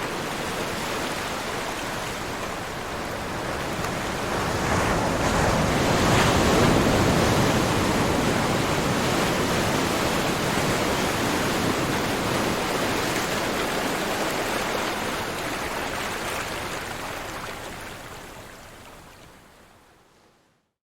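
Ocean surf: a steady wash of breaking waves that swells a few seconds in, then gradually fades out to silence near the end.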